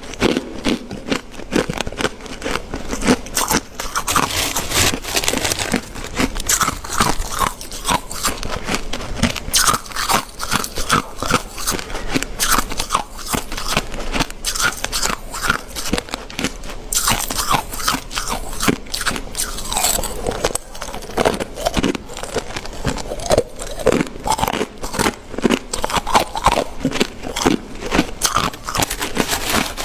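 Crunchy ice being bitten and chewed close to the microphone: a dense, irregular run of crunches and crackles.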